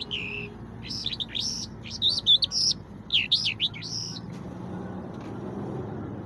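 A songbird singing in quick bursts of high chirps and warbled notes for about four seconds, then falling silent. A low steady rumble is heard under the latter part.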